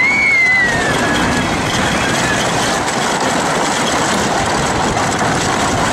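Wooden roller coaster train running along its track: a loud, steady rattling rumble mixed with rushing air. A short high cry or squeal rises and falls right at the start.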